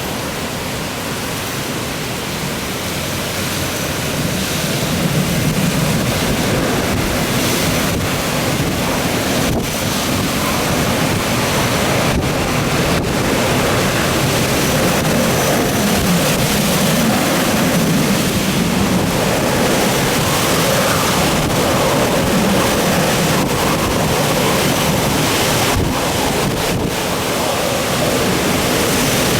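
Typhoon wind blowing hard and steadily, buffeting the microphone, growing a little stronger about four seconds in.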